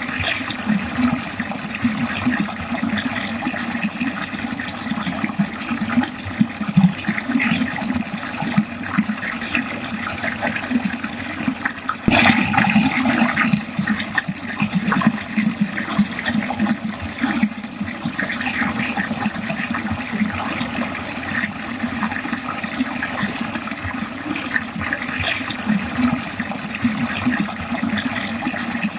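Water flowing steadily down a drain in a continuous splashing stream. There is a single sharp click about twelve seconds in, after which the flow is briefly a little louder.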